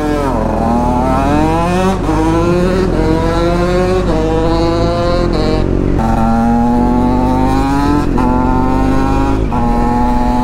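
Motorcycle engine accelerating hard through the gears, its pitch climbing in each gear and dropping back at four upshifts, about two, six, eight and nine and a half seconds in. Wind rushes over the microphone underneath.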